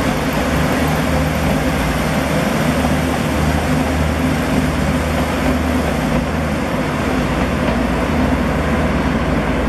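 Electric commuter train running past on the tracks: a steady, even rumble and hum that does not change.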